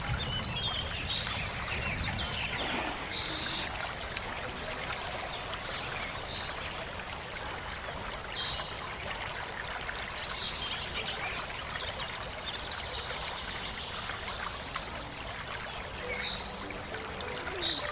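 Small natural stream of water running and splashing over rocks in a steady trickling rush, with a few short high chirps now and then.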